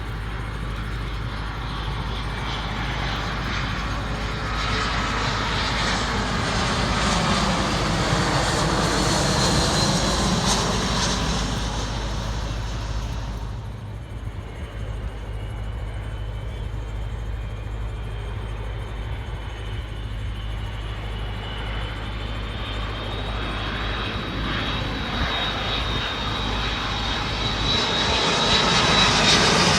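Jet airliners on approach to land flying past. The engine roar swells to a peak about ten seconds in, with a sweeping change in tone as the jet passes, and drops away abruptly after about thirteen seconds. A second jet's roar, with a high engine whine, then builds and grows loud near the end.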